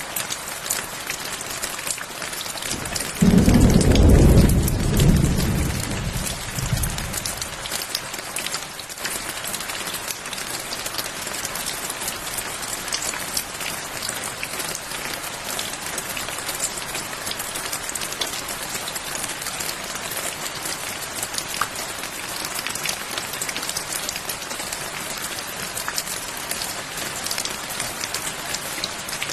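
Steady rain falling, with a dense patter of drops. About three seconds in, a loud, deep rumble of thunder starts suddenly and fades away over about four seconds.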